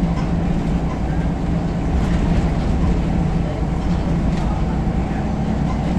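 Scania L94UB single-decker bus's five-cylinder diesel engine running steadily with the low rumble of the bus, and a few light rattles.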